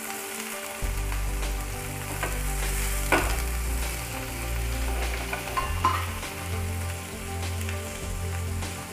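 Paneer cubes sizzling in a little hot oil in a non-stick frying pan: a steady frying hiss, with a few sharp clicks and scrapes as a steel spoon spreads the cubes across the pan.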